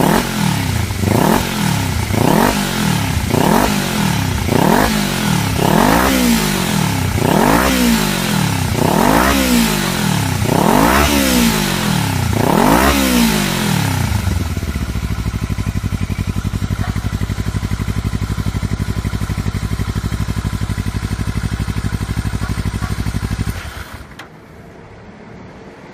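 Kawasaki Ninja 400R parallel-twin engine breathing through an aftermarket slip-on muffler, its throttle blipped about once a second, each rev rising and falling, a dozen times. It then settles to a steady idle and goes quiet shortly before the end.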